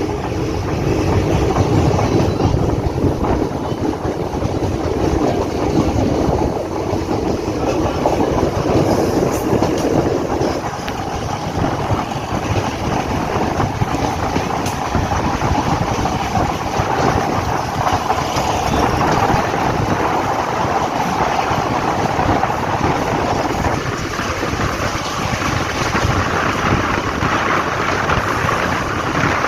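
DEMU (diesel-electric multiple unit) train running along the track, a steady rumble of wheels on rails heard from on board.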